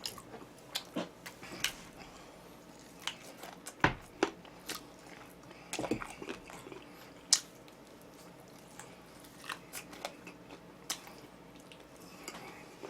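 Close-up crunching and chewing of crisp fried chicken: irregular sharp crunches as the coating is bitten, with softer chewing between.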